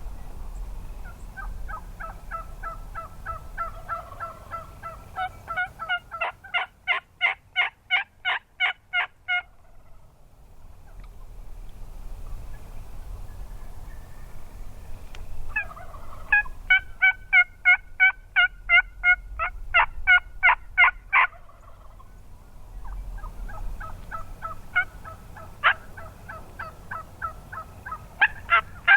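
Turkey yelping in three runs. Each run starts softly and builds into a loud series of evenly spaced two-note yelps, about four a second; the third run begins near the end and is still going.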